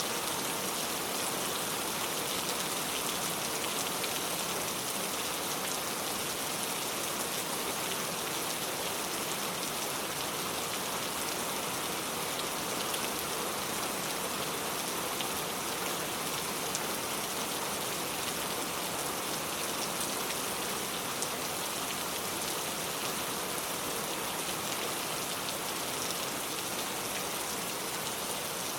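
Steady rainfall: an even hiss of rain with the patter of drops on surfaces, unchanging in strength.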